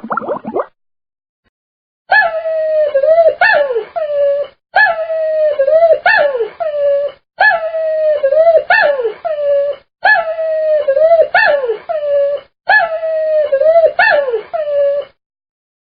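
An animal-like whining or howling call used as a sound effect. A phrase of three wavering, swooping cries repeats identically six times, about every two and a half seconds.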